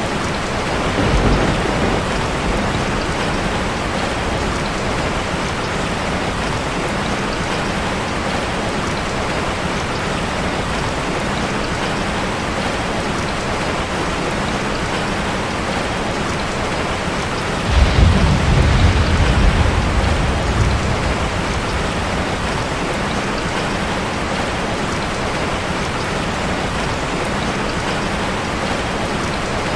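Steady rain falling on a metal roof, an even hiss throughout. Thunder rumbles low and briefly about a second in, then louder for about three seconds past the middle.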